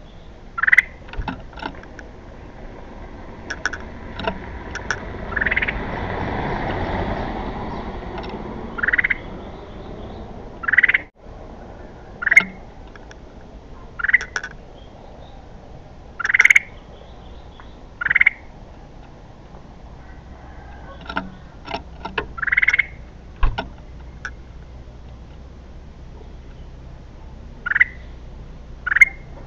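Kutilang emas bulbul giving short, sharp calls, one every second or two, with a brief swell of rustling noise about six seconds in.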